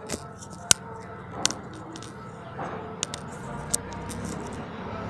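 A handful of sharp, irregular clicks over a low steady hum.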